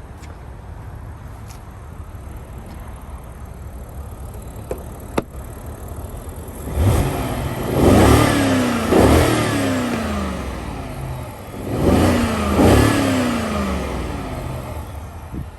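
2006 BMW 650i's 4.8-litre V8 idling, then blipped twice in quick succession about seven seconds in and twice more about twelve seconds in, each time falling back to idle.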